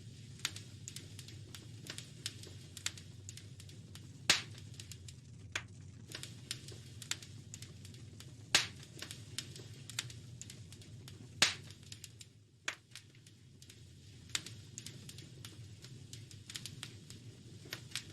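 Wood fire crackling in a fireplace: frequent small crackles over a low steady rumble, with three loud pops about four, eight and a half and eleven and a half seconds in.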